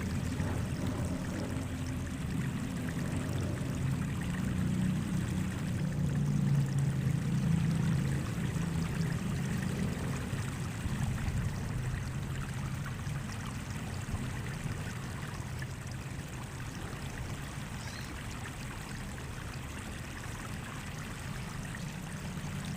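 Water running and trickling steadily, with a low rumble that eases off slowly.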